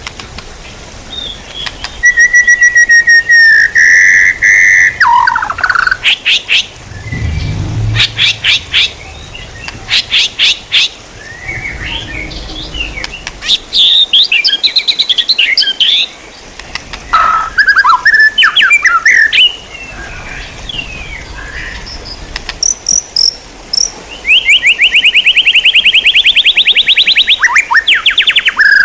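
Songbird song, loud and varied: whistled notes, quick runs of sharp clicking notes, chattering chirps, and a long rapid trill near the end.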